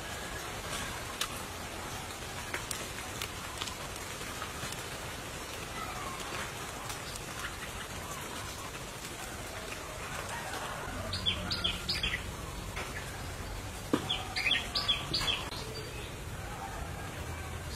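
Outdoor ambience: a steady hiss like light rain with scattered small ticks, and two brief runs of high, quick bird chirps about eleven and fifteen seconds in. A low rumble sets in around ten seconds in.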